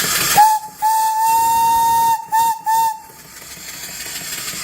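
Antique steam whistle on a steam boiler blowing four blasts: a short toot, a long steady blast of over a second, then two quick toots, one clear pitch with overtones. After the whistle the steam engine's running sound comes back in.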